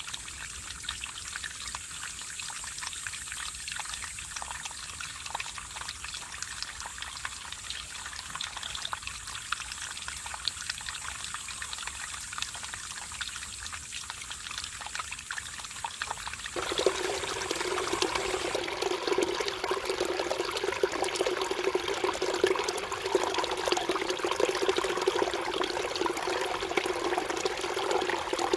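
Mountain stream water trickling and splashing over rocks. Past the middle it turns suddenly louder and fuller, as a heavier flow of water.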